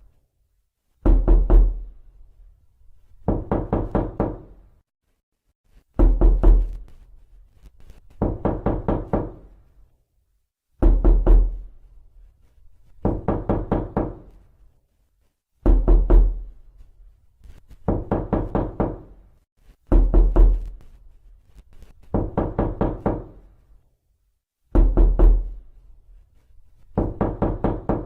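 Knocking on a door in repeated runs of several quick knocks, a new run every two to two and a half seconds, some runs opening with a heavy low thud.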